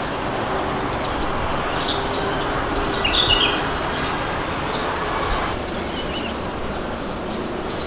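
Steady wind noise with birds chirping now and then, a quick burst of chirps about three seconds in. A faint hum under the wind stops a little past halfway.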